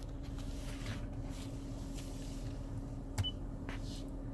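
Clicks of the SUV's dashboard controls being pressed: one at the start and a louder one about three seconds in, which sets off a short high electronic beep. Under them runs a steady low hum in the cabin.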